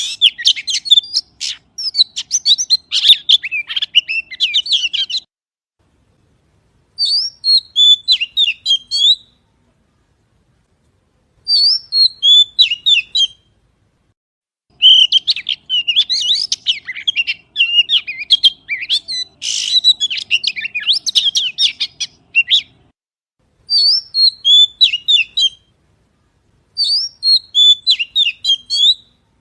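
Magpie song: phrases of quick, varied whistled and chirping notes, each phrase lasting about two to eight seconds, broken by silent gaps of a second or two.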